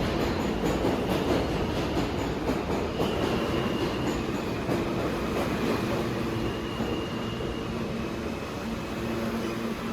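New York City subway train running: a steady rumble of wheels on rail with faint held squealing tones.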